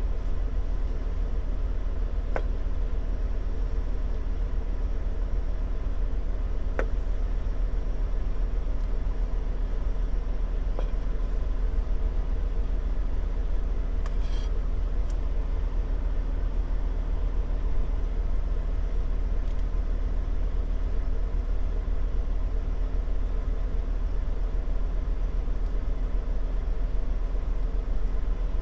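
Steady low drone of a semi-truck's diesel engine idling, heard from inside the cab, with a few light clicks of utensils or containers.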